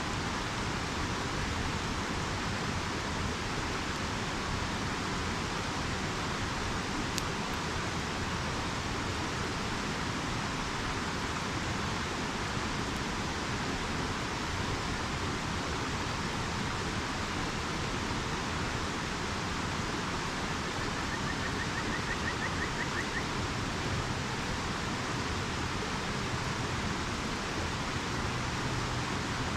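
River water rushing steadily, with a single sharp snap about seven seconds in and a faint brief trill near the end of the second third.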